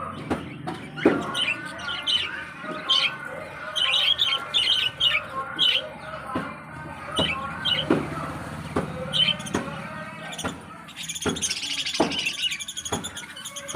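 Budgerigars chirping and chattering: many short, high chirps in quick succession, with a few sharp clicks and a denser burst of chatter near the end.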